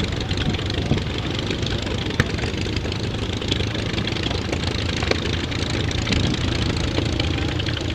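Propeller airplane engine idling steadily, with a single sharp click about two seconds in.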